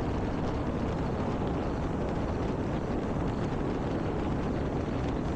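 Steady, rough rumble of wind on the microphone, with the E-flite Air Tractor electric RC airplane flying at a distance.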